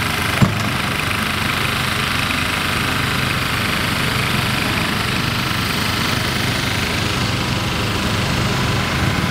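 Diesel engine of construction machinery running steadily at a constant speed, with one sharp knock about half a second in.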